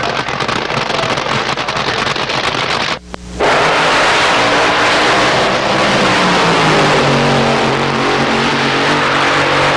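Car engine running loudly after a cut, its pitch falling and then holding steady lower; before the cut, a rough crackling noise.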